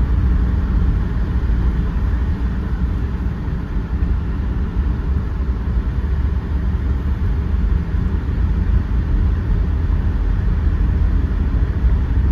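Steady rumble of a car or truck being driven, its engine and road noise heard from inside the cab.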